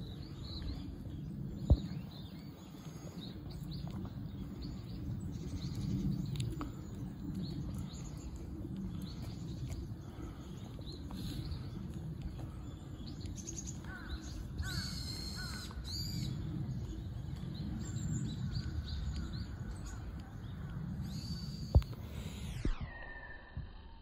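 Small birds chirping and twittering on and off, busiest about two-thirds of the way through, over a steady low outdoor rumble. Two sharp knocks stand out, one near the start and one near the end.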